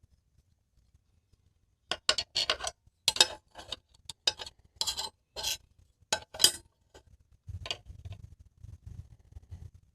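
Hard small objects clinking and clattering in quick succession for about five seconds, then quieter low knocks and handling noise.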